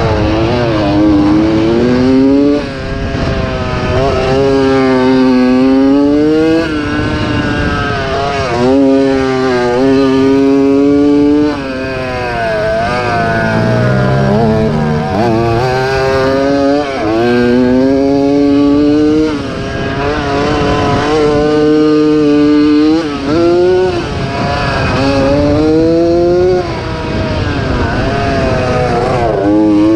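Two-stroke engine of a 1987 Yamaha YZ80 motocross bike being raced. Its pitch climbs again and again as the throttle opens through the gears, with brief throttle chops several times.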